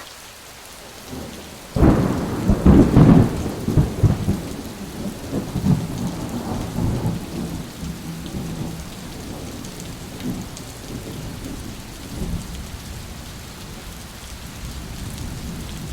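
Audience applauding. It starts abruptly about two seconds in, is strongest over the next couple of seconds, then settles into steadier, softer clapping.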